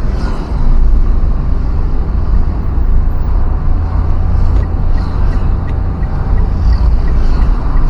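Steady road-travel noise from a moving vehicle in traffic, with a heavy low wind rumble on the microphone. Faint light ticking, about three a second, comes in about halfway through.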